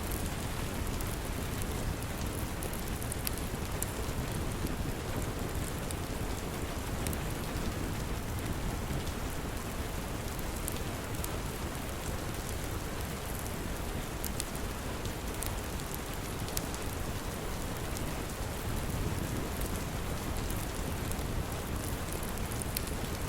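Steady rain with a wood fire's scattered small crackles over it.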